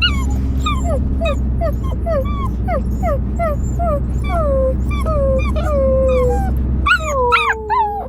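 Siberian husky giving a quick run of short, whiny yips, each falling in pitch, about two to three a second. Near the end they draw out into a longer howl that slides down in pitch.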